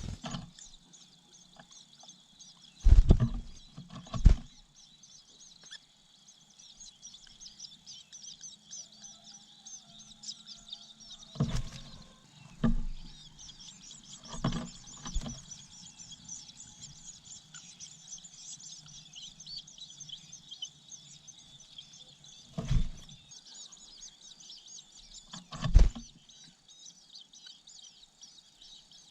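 Dense, high-pitched bird chirping throughout, over a low steady hum. About eight short, loud thumps break in: a pair near the start, four between about 11 and 15 seconds in, and two more later.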